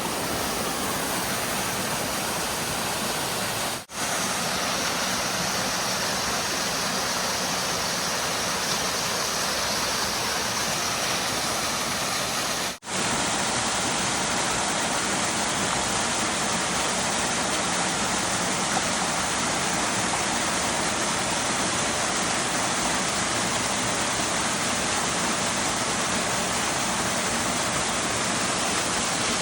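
Waterfall and stream water rushing steadily, broken twice by a momentary dropout where the recording is cut.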